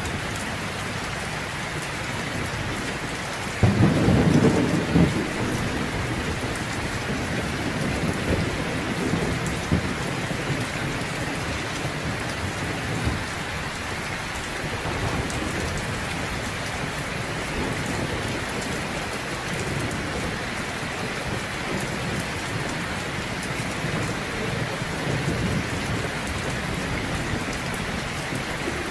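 Heavy rain falling steadily, with a sudden loud clap of thunder about four seconds in and low rumbles of thunder later.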